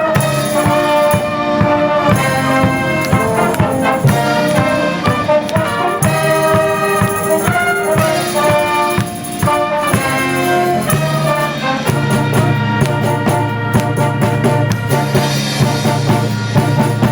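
A brass band playing live: trumpets and trombones carrying a melody in sustained notes over a steady drum beat.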